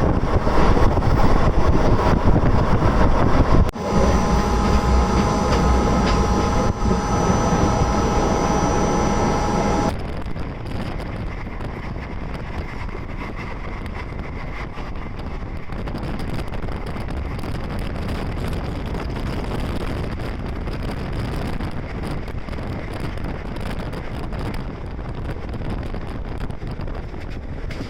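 Passenger train running, a steady rumble of wheels and rail noise that drops to a quieter rumble about ten seconds in.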